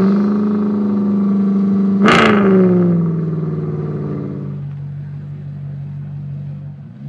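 Maserati Mostro Zagato V8 engine running at a high idle. It is blipped once, sharply, about two seconds in, then its pitch sinks and settles into a lower, steady idle.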